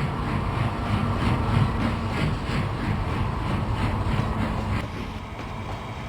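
Steam locomotive chuffing steadily, about three chuffs a second, over a low rumble of the running train; the chuffing stops near the end.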